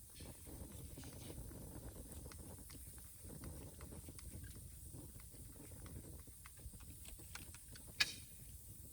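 Wood bonfire crackling: scattered small pops over a low steady rumble, with one sharp, louder pop about eight seconds in.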